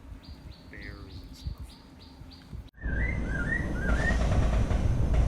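Birds chirping: a run of short high chirps, about three a second, then, after an abrupt cut, three short warbled phrases over a louder steady background noise.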